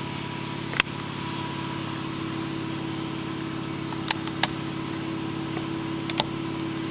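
A steady low mechanical drone, with a few short sharp clicks about a second in, twice around four seconds, and once near six seconds.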